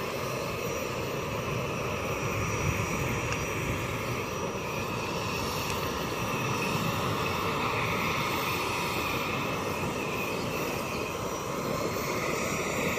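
Airliner engines running steadily: a continuous rushing drone with a higher whine that swells and eases slightly.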